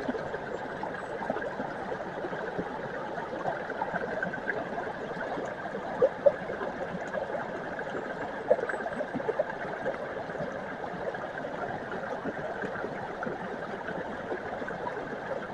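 Small mountain brook running steadily, an even rush and gurgle of flowing water, with a few louder plops about six and eight and a half seconds in.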